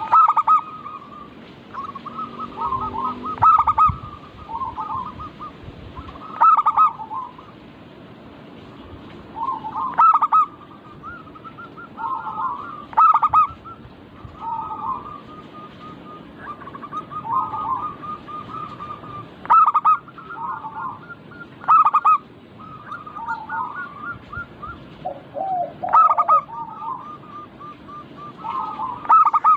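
Several zebra doves (perkutut) cooing, their quick bubbling coo phrases overlapping one another, with the loudest phrases coming about every three seconds.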